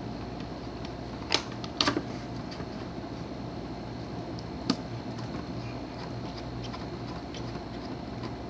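Sharp clicks and knocks of grinder and extender parts being handled and taken apart: one a little over a second in, two close together about two seconds in, and another near five seconds, over a steady low hum.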